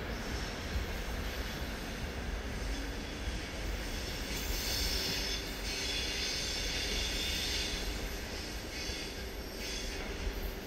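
Passenger train coaches rolling away along the track: a steady low rumble, with a high metallic wheel squeal that comes in about four seconds in and fades near the end.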